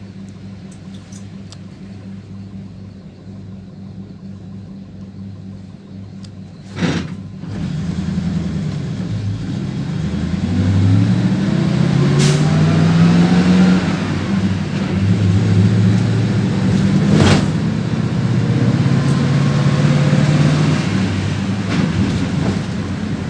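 PAZ 32054 bus's petrol V8 engine idling steadily. About seven seconds in comes a sudden sharp burst, then the engine pulls away and accelerates. Its pitch climbs, drops at each gear change and climbs again, with short sharp sounds at the shifts.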